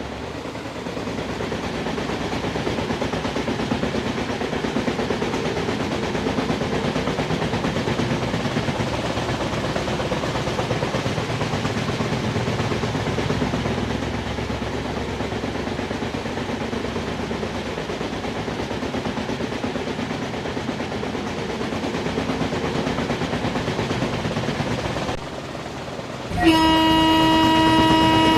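Passenger train running, a steady noisy rumble. Then, about two seconds before the end, it drops briefly and a locomotive horn sounds one loud, steady, held blast.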